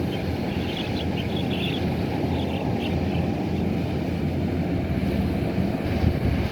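Kubota DC-105X combine harvester's engine running steadily, with a few short high chirps in the first few seconds.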